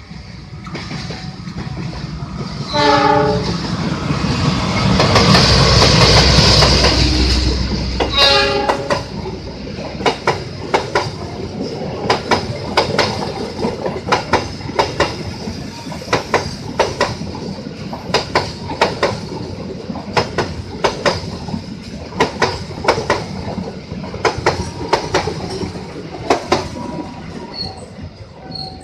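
A passenger train passing at close range: its horn sounds twice, about three seconds in and again around eight seconds, while the train's rumble is at its loudest. A steady clickety-clack of wheels over rail joints follows as the carriages run past, fading near the end.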